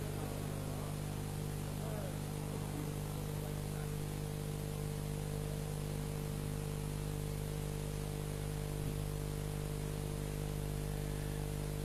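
Steady electrical hum with several fixed low tones under a constant hiss, the background noise of a live mosque sound system and recording.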